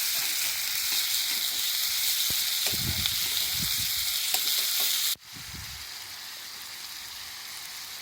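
Food sizzling over a campfire: a steady frying hiss with a few small crackles and low bumps. It cuts off sharply about five seconds in, leaving a quieter steady hiss.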